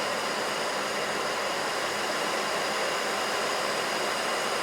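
Steady flight-deck noise of a Boeing 737NG on short final: an even hiss of airflow around the cockpit with the engines' hum beneath it, unchanging throughout.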